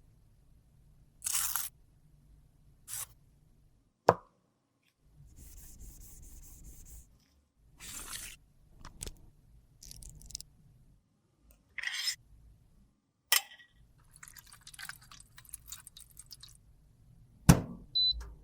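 Makeup containers and tools handled on a hard surface: separate clicks and taps, a couple of short scraping passes, and a sharp knock near the end, the loudest sound.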